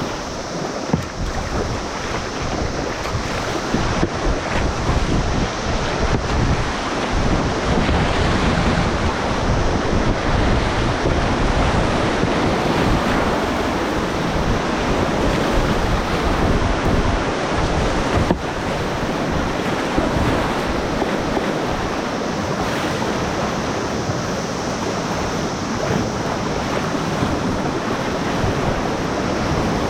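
Fast river water rushing through whitewater rapids, a steady loud wash, with wind buffeting the microphone.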